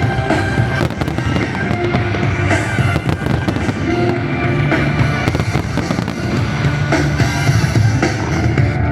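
Fireworks display: aerial shells bursting and crackling in quick irregular succession over a loud music soundtrack.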